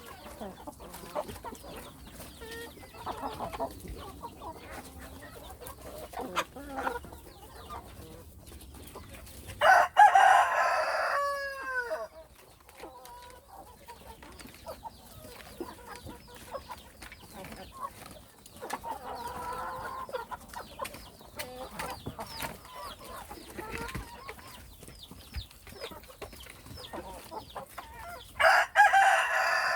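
Backyard chickens clucking, with a rooster crowing loudly twice, about ten seconds in and again near the end.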